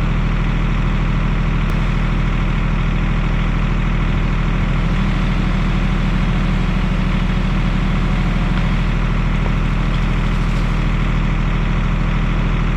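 LS MT232 compact tractor's diesel engine running at a steady speed.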